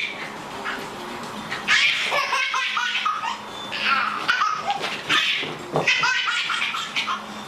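A small child laughing in repeated high-pitched bursts, with short pauses between them.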